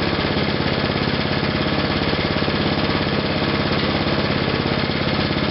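Small go-kart engine running steadily at idle with no load, nothing hooked to its output shaft, its exhaust pulsing in a fast, even beat.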